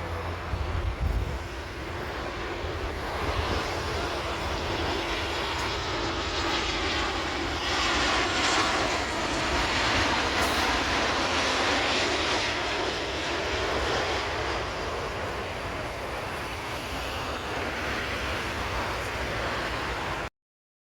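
Engine noise of a twin-engine narrow-body jet airliner arriving low overhead: it swells to its loudest about eight to twelve seconds in, with a sweeping change in tone as it passes, then eases off. The sound cuts off abruptly just before the end.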